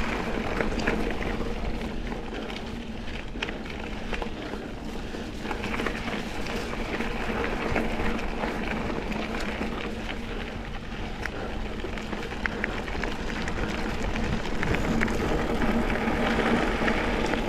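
Mountain bike rolling along a dirt double-track trail: steady tyre and riding noise with frequent small clicks and rattles from the bike.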